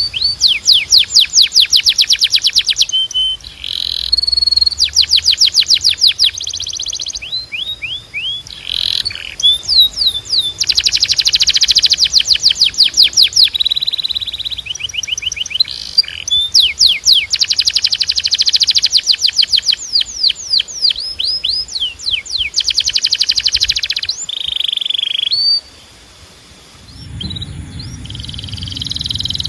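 Domestic canary singing a long song of fast rolling trills, each a rapid run of repeated notes lasting one to three seconds. Falling swept notes and short held whistles come between the trills. The song breaks off briefly near the end, when a low rumble comes in underneath.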